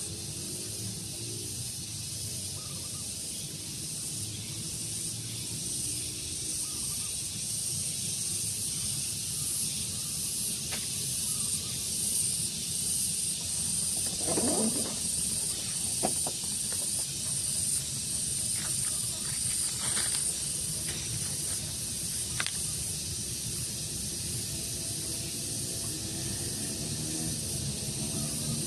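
Daytime outdoor ambience: a steady high hiss with a faint regular pulsing, and a few short bird chirps about halfway through.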